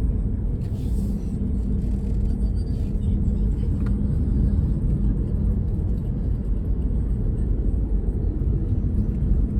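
Steady low rumble of a moving road vehicle, with a faint steady hum running under it.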